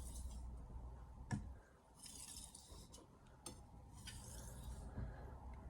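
Santoku blade swept edge-leading across a wet 1000-grit whetstone to deburr it: faint scraping strokes about every two seconds, with light clicks of the steel against the stone between them.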